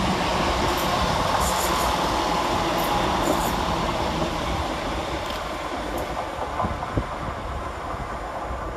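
Class 175 diesel multiple units running through the station, with short high clicks and rattles in the first few seconds. The sound holds steady and then fades gradually as the train moves away.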